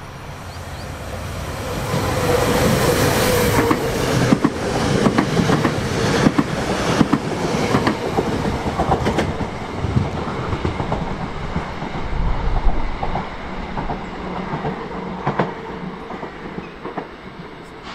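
A train passing close by. Its rumble builds over the first few seconds, then the wheels clatter over rail joints in quick, uneven clacks, and the sound slowly dies away near the end.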